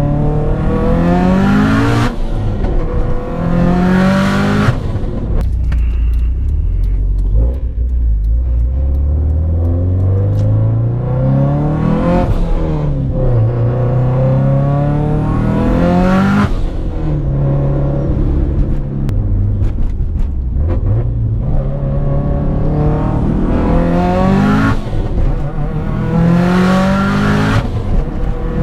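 Car engine accelerating hard through the gears, its pitch climbing and then dropping at each shift, in several repeated pulls.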